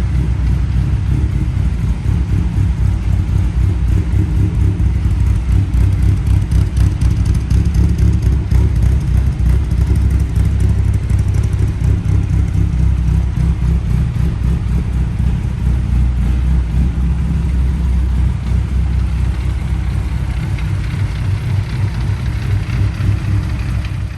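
A 1978 Austin Morris Mini Clubman Estate's A-series four-cylinder engine running steadily.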